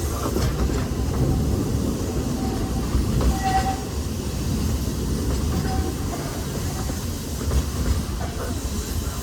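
Walt Disney World Railroad passenger train rolling along the track, a steady low rumble of wheels and cars on the rails.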